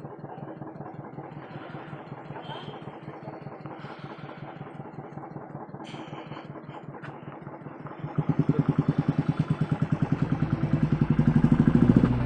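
Motorcycle engine idling with an even, pulsing beat. About eight seconds in it becomes much louder and the pulses quicken as the bike is revved and pulls away.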